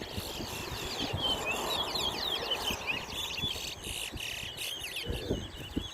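Caged towa towa (chestnut-bellied seed finch) singing in a song contest: fast, repeated high twittering chirps, one song phrase after another, over a low background murmur.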